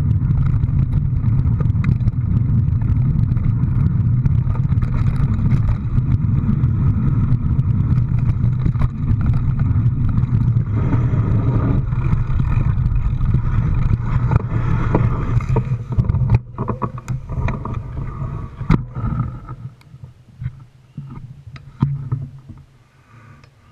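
A motor vehicle running, heard as a steady low rumble with scattered knocks and rattles. It dies away between about two-thirds and four-fifths of the way through, leaving only a few faint clicks.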